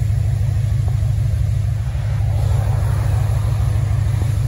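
Second-generation Chevrolet Camaro's engine idling with a steady low rumble.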